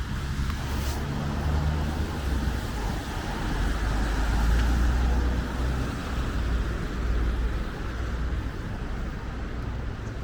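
Road traffic on a city street: a motor vehicle passing close, its engine rumble and tyre noise swelling to a peak about halfway through and then fading.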